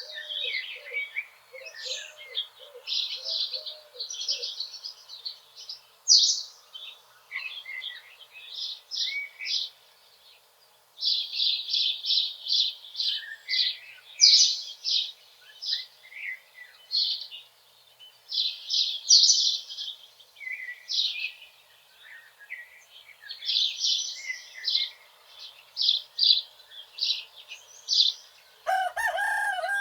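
Wild songbirds singing, a steady run of short, high, repeated trills and chirps. A rooster starts crowing near the end.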